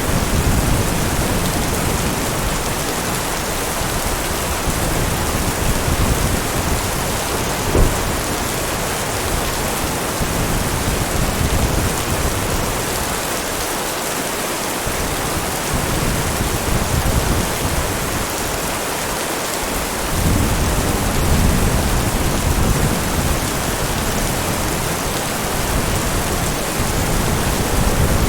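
Steady heavy rain, with low rolling thunder that swells and fades several times. A single sharp tap stands out about eight seconds in.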